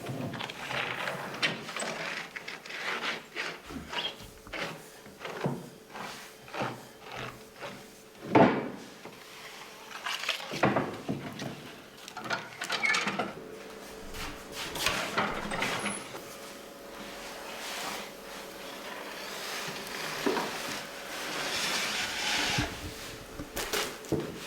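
Bakery work sounds: irregular wooden knocks, clatter and scraping as tools, trays and wood are handled, with one sharper knock about eight seconds in.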